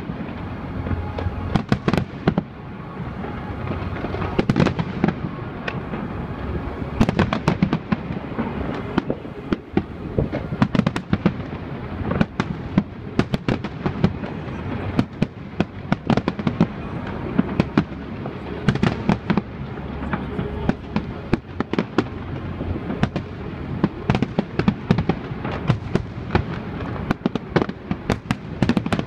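Aerial fireworks display: a dense, unbroken barrage of shell bursts and crackling, several sharp cracks every second over a constant rumble.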